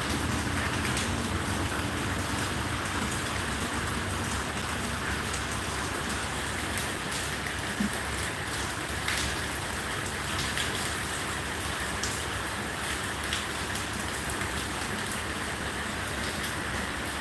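Steady rain falling, with scattered sharper drops ticking.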